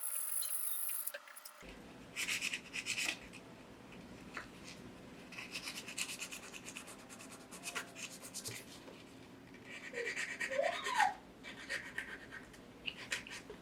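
Hand tool scraping and rubbing on a rusty metal model car in short, irregular strokes. There is a brief hiss at the start and a couple of short rising squeaks about ten seconds in.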